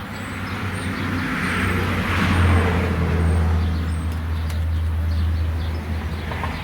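A motor vehicle passing by: a low engine drone and tyre hiss that swell to a peak about two and a half seconds in, then slowly fade.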